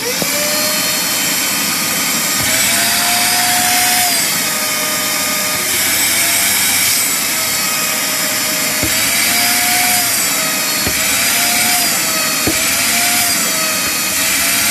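Wet-and-dry canister vacuum cleaner switched on and running, a loud steady motor and airflow noise with a whine whose pitch dips and rises a little as the suction load changes.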